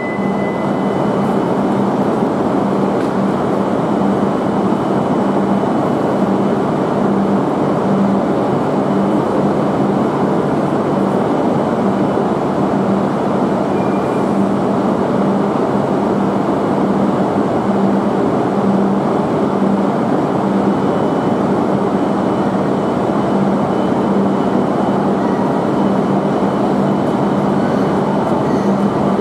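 Shinkansen train at the platform, a steady loud rumble with a constant low hum. A high wheel squeal fades out in the first second.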